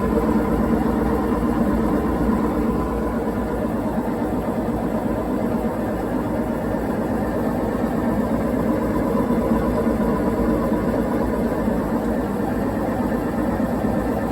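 Whirlpool WTW4815EW1 top-load washer spinning, running steadily and very noisily with no banging; it sounds like bad bearings or something.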